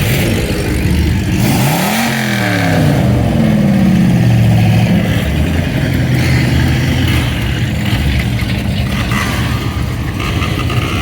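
Car engine revved once about two seconds in, the pitch climbing and falling back, then running steadily at a low note.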